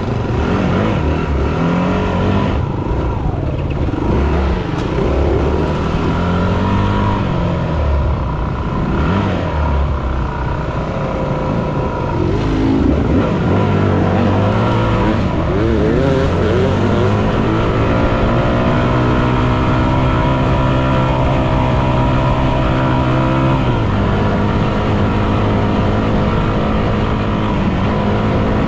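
Yamaha WR250F's single-cylinder four-stroke engine revving up and down under way. It then holds a steady high pitch for several seconds before the pitch steps down near the end.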